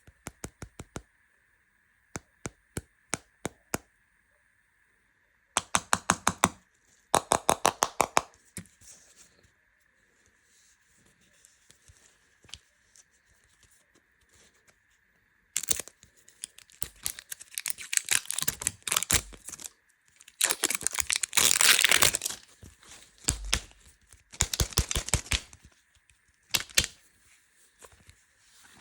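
Plastic candy wrappers being crinkled and torn open, in bursts of rapid crackling with quiet pauses between them, after a run of sharp clicks near the start.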